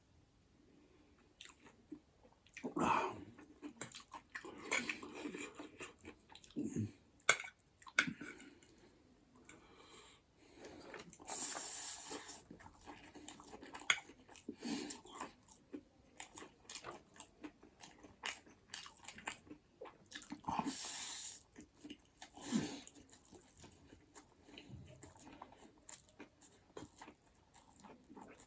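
Close-miked chewing and biting while eating buffalo bone marrow and noodles, irregular wet mouth noises with a couple of longer noisy stretches.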